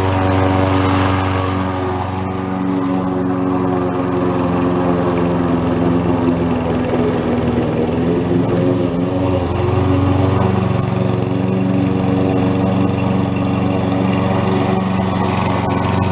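Petrol lawn mower engine running steadily while cutting grass; its note wavers and weakens about two seconds in and steadies again about ten seconds in.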